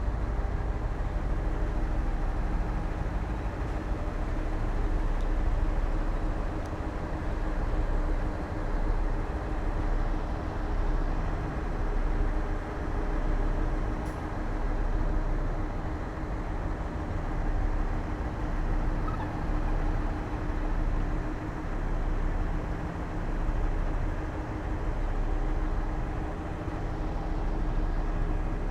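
Heavy diesel engine of earthmoving machinery running steadily, its level swelling and easing every couple of seconds.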